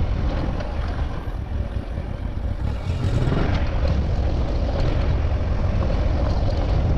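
Motorcycle running, heard as a heavy, steady low rumble.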